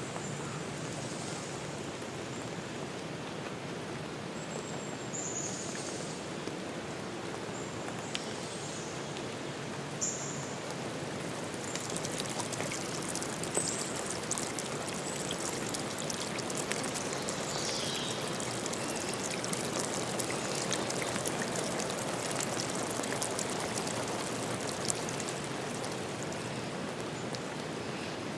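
Forest ambience of water: a steady rush with fine ticking of drops that grows denser about twelve seconds in, and a few short high chirps, one of them falling in pitch.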